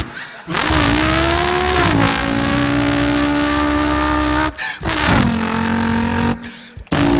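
A man's voice imitating a race car engine: a loud held engine-like drone that dips in pitch about two seconds in like a gear change. It breaks off briefly around the middle and starts again twice, the last time near the end.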